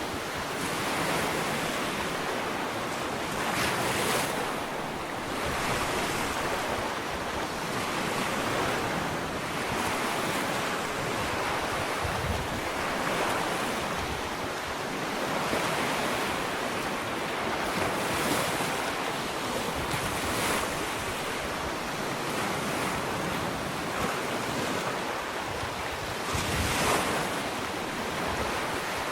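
Ocean waves breaking and washing up a sandy beach, a continuous rush that swells and eases every few seconds with the occasional stronger crash.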